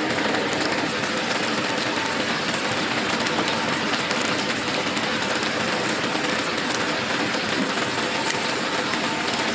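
Chicken deep-frying in hot oil: a steady sizzle with fine crackling.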